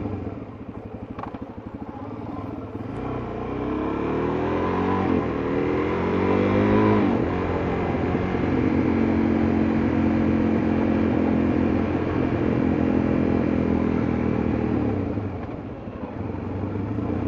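Suzuki DR-Z400S single-cylinder four-stroke motorcycle engine under way. It starts off softer, rises in pitch as the bike accelerates from about 3 to 7 seconds in, then holds a steady note, easing off briefly near the end.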